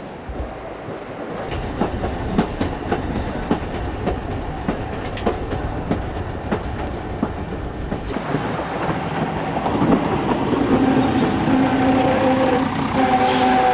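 Chemins de Fer de Provence metre-gauge diesel railcar running along the track, its wheels clicking over the rail joints. The sound grows louder in the second half, and a steady tone joins in over the last few seconds as the railcar passes close.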